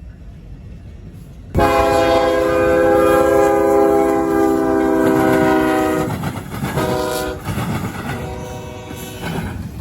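Amtrak GE P42DC diesel locomotive's air horn sounding a chord as the train approaches. It gives one long blast, then a short one, then another longer but fainter one, over the rumble and clatter of the train on the rails.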